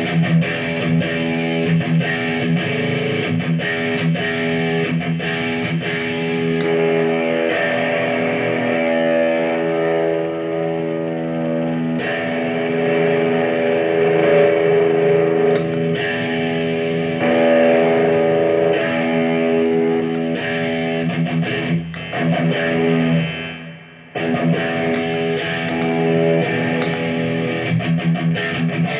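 Fender electric guitar played through effects pedals into a Marshall AVT50 amplifier: picked notes and chords ringing out with sustain. The playing breaks off briefly about two-thirds of the way through, then resumes.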